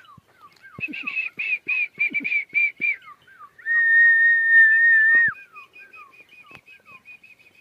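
High-pitched bird calls: a short falling chirp repeating about three times a second, a run of about eight loud high notes, then one loud steady whistle lasting under two seconds, followed by a fast ticking trill.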